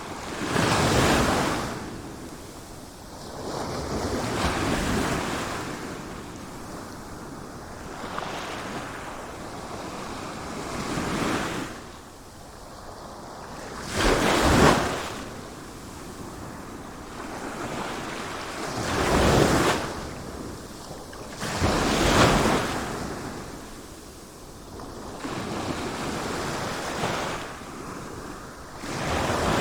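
Sea waves breaking: surges of surf every few seconds, each swelling and falling away, over a steady wash of water.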